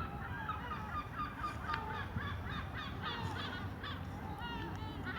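A quick run of short, high honking calls, several overlapping, one after another.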